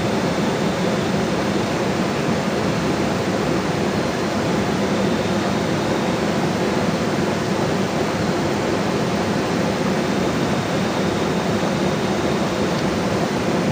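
Steady, loud wash of water noise without a break, the sound of heavy rain and running water.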